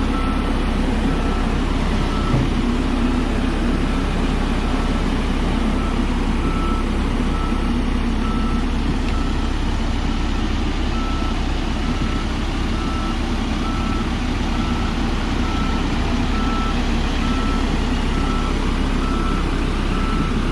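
Back-up alarm beeping steadily at an even pace on a reversing heavy vehicle, over the engine's steady running.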